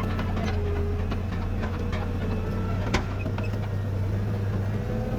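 Komatsu D31PX bulldozer's diesel engine running steadily, with scattered light clanks and one sharper knock about three seconds in.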